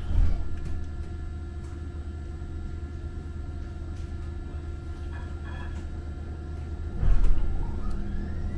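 Steady low rumble of a Muni Metro light-rail train running, heard from inside, with a louder jolt just after the start and another about seven seconds in. Near the end a thin whine starts rising in pitch.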